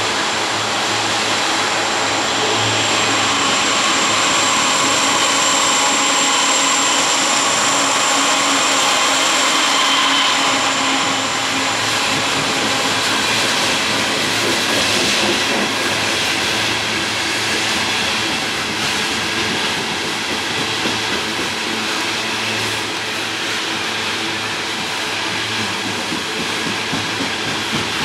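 A CSX GE ET44AH diesel locomotive, then loaded coal hopper cars, rolling past on the rails in a steady rumble and hiss of wheels. A thin high whine runs through roughly the first twelve seconds, while the locomotive goes by and the sound is at its loudest.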